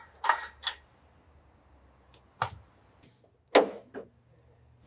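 A handful of separate sharp knocks and clicks with near quiet between them, from hand tools on the new muffler as it is fitted and tightened.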